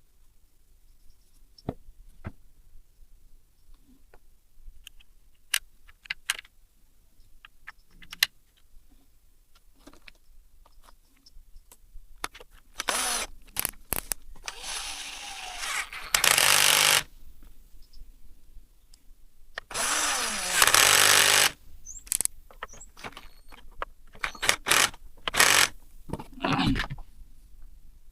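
Workshop tool noise: scattered small clicks and knocks of parts being handled, then two loud bursts of rushing, whirring noise, the first about four seconds long and the second about two seconds, with pitch sliding down inside them, followed by more clicks.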